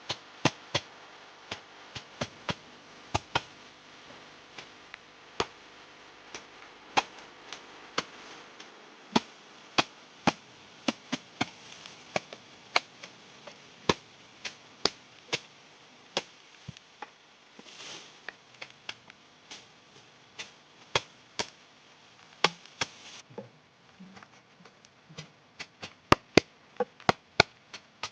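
Sharp chopping strokes of a blade on wood, coming irregularly at about one or two a second, with a short pause about eighteen seconds in.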